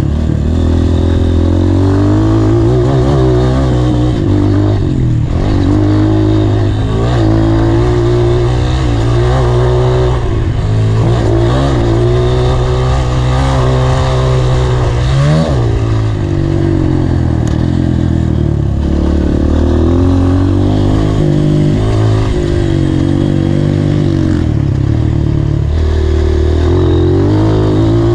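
Honda CRF230 dirt bike's single-cylinder four-stroke engine, ridden hard: revving up and dropping back again and again as the throttle opens and closes and the gears change, with a sharp high rev about 15 seconds in.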